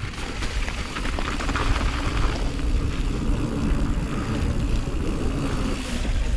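Mountain bike rolling fast down a wet trail, heard on a helmet camera: tyre noise and wind rumble on the microphone, growing louder over the first couple of seconds, with a faint steady hum through the middle and a few small knocks from the bike.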